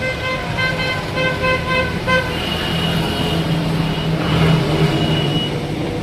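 A vehicle horn beeping about six times in quick short toots, followed by a long steady high-pitched tone, over the steady low hum of engines and traffic.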